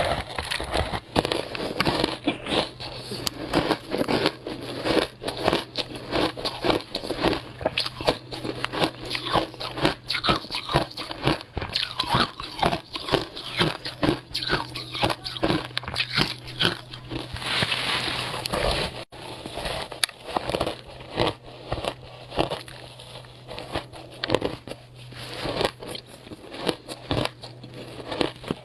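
Frozen passion fruit ice being bitten and chewed close to the microphone: a rapid, uneven run of sharp crunches and cracks, with a denser, hissier stretch of chewing a little past halfway.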